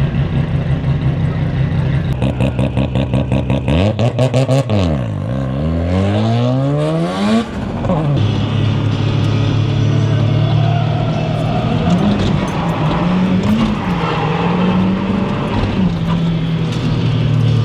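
Drift car engine running at high revs. It pulses briefly, dips, then climbs in a long rising rev about five seconds in, and then holds a steady high note that wavers up and down.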